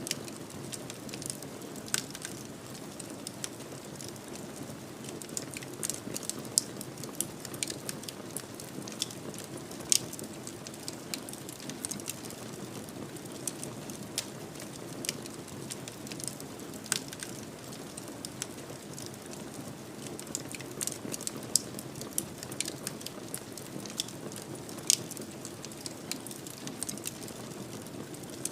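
Wood fire burning in a fireplace: a steady soft low rush with frequent sharp crackles and pops, a few of them louder.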